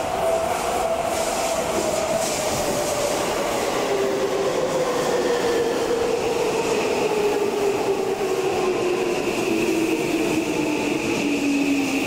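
Electric commuter train pulling into a station and slowing: its motors whine in a steadily falling pitch as it brakes. A higher steady tone joins about halfway through.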